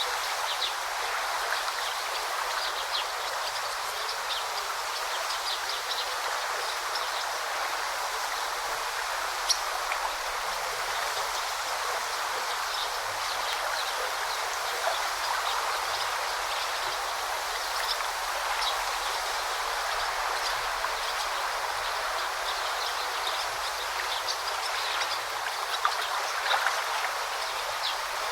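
A forest river babbling and rushing steadily, with many short, faint bird chirps scattered over it and a couple of brief louder clicks.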